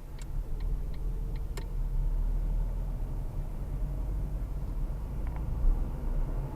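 Low, steady rumble of a car's engine and road noise heard from inside the cabin, with a few light clicks in the first couple of seconds.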